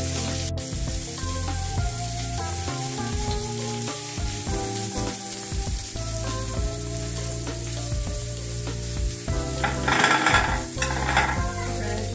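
Prosciutto-wrapped chicken breasts sizzling as they sear in a hot cast iron pan, with a louder rush of sizzle about ten seconds in. Background music plays underneath.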